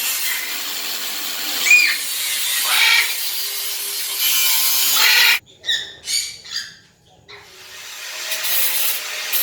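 Steady rasping of aviary wire netting being cut, with a few short parrot squawks over it. The rasping stops for about two seconds in the middle, leaving a few squawks on their own, then starts again.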